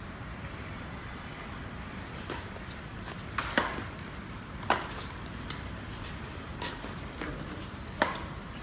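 Badminton rackets striking a shuttlecock in a rally: a series of sharp, short cracks, the loudest three about a second in from the middle and again near the end, with fainter hits in between.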